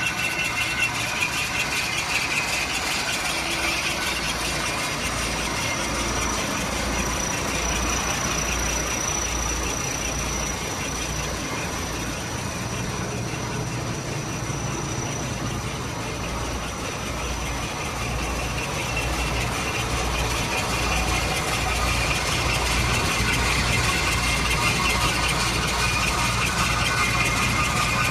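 Diesel engine of a 1999 Gravely ProChip 12108 wood chipper running steadily with an even low pulse. A thin high whine comes in for a few seconds in the first half, and the running gets a little louder about two-thirds of the way through.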